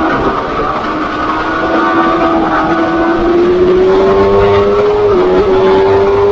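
Pit bike engine held at high revs under racing throttle, its pitch sagging a little at first, then climbing slowly, with two brief dips about five seconds in as the throttle eases.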